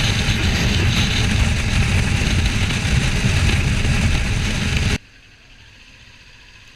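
Wind rush and motorcycle road noise at riding speed, with engine and tyre rumble underneath, as picked up by a helmet or bike-mounted microphone. It cuts off suddenly about five seconds in, leaving only a faint steady hum.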